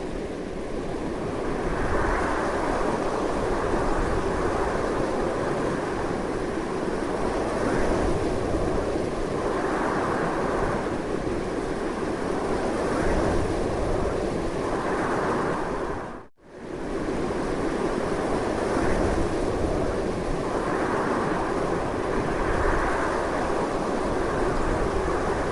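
Strong wind blowing as a continuous rushing noise that swells in gusts every few seconds. It drops out suddenly for a moment about 16 seconds in, then comes straight back.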